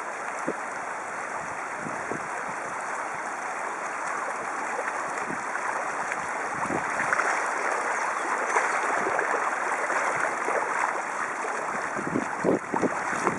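Floodwater from heavy rain rushing in a steady stream-like flow, slowly growing louder. A few low thumps come near the end.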